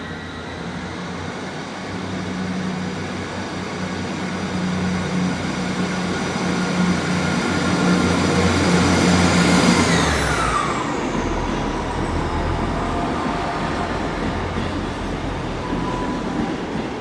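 Class 158 diesel multiple unit pulling away from the platform, its underfloor diesel engines working under load with a whine that grows louder. About ten seconds in, the whine drops sharply in pitch and the sound eases off.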